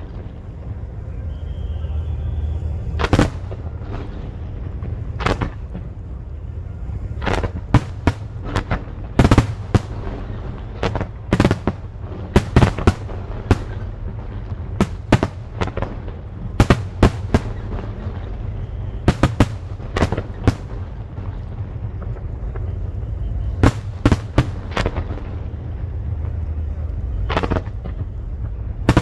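Aerial fireworks bursting: a string of sharp bangs at uneven intervals, some in quick clusters, over a continuous low rumble.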